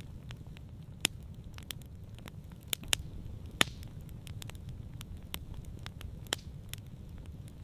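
Campfire crackling: irregular sharp pops and snaps over a low steady rumble of the flames.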